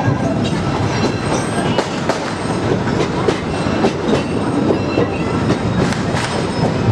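Amusement park railroad train rolling along the track: wheels clicking over rail joints amid a steady rumble of the cars, with some wheel squeal.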